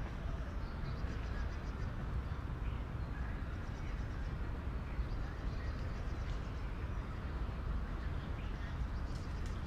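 City park ambience: a steady low rumble of distant city traffic, with faint bird chirps over it.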